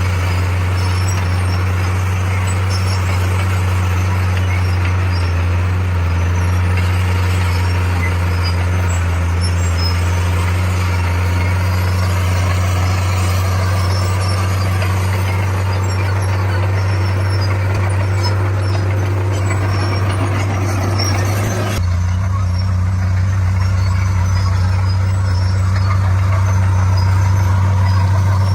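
D41 bulldozer's diesel engine running steadily with a deep hum; about three quarters of the way through, the higher, gritty part of the sound drops away abruptly while the engine hum carries on.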